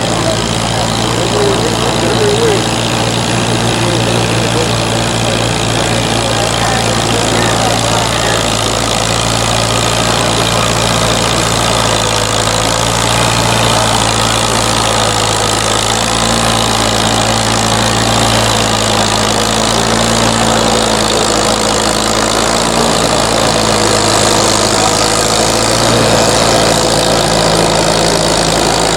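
Antique farm tractor engine running steadily, with a slight change in pitch about halfway through.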